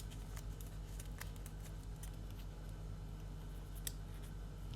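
Faint, scattered light clicks and rustles of trading cards being handled and set down while being sorted, over a steady low electrical hum.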